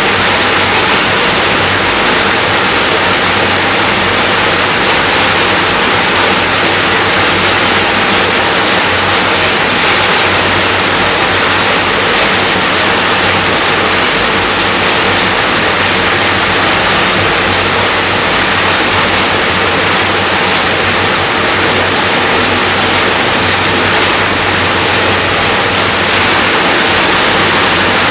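Steady heavy rainfall: a dense, even hiss of rain that does not let up.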